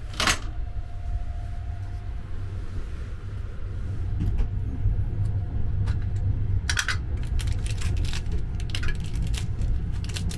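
Steady low rumble of a sleeper train running, heard from inside the carriage, with a sharp click right at the start. From about four seconds in, crackling clicks of a small bar of soap's plastic wrapper being handled and torn open, loudest around seven seconds.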